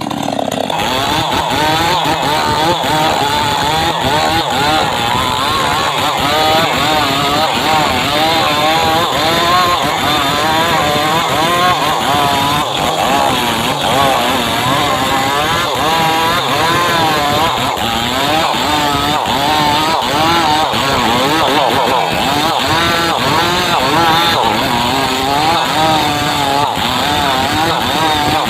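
Chainsaw running under load while cutting rain tree (trembesi) timber. Its engine pitch wavers up and down continuously as the chain bites, with no let-up.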